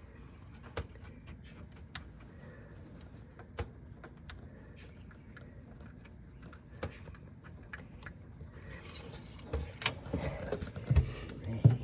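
Scattered light metallic clicks and clinks as the accelerator cable end and throttle linkage are handled and worked into place. About two-thirds of the way through it turns into a busier rattling and clanking, with a few louder knocks near the end.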